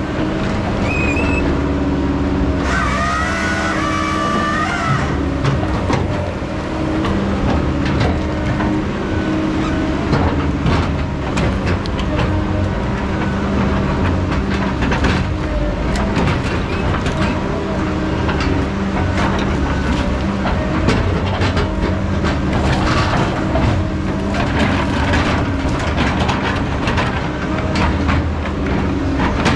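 Heavy logging machinery's diesel engine running steadily under work, with scattered clanks and knocks and a brief wavering high squeal a few seconds in.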